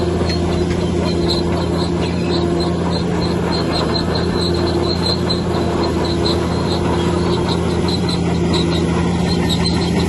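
Bulldozer's diesel engine running steadily, with repeated short high squeaks from its steel tracks, several a second.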